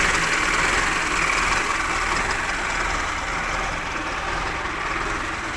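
Mahindra Arjun 555 DI tractor's diesel engine idling steadily.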